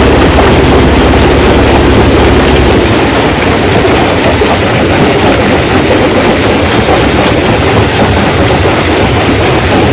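Stone crushing machine running loud, rock clattering and grinding through it continuously over a low machine hum. The hum weakens about three seconds in while the clatter goes on.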